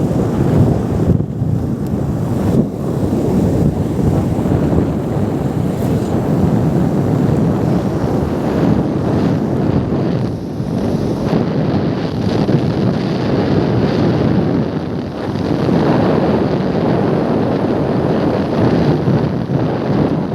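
Wind buffeting the microphone: a loud, steady rushing noise, heaviest in the low range.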